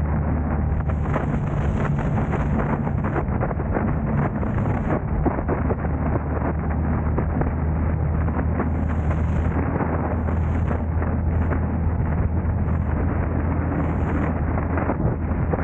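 Steady low rumble of a car on the move: engine and road noise with no break or change.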